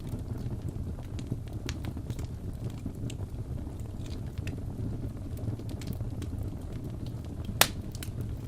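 Crackling wood fire: a steady low rumble with scattered sharp crackles and one loud pop near the end.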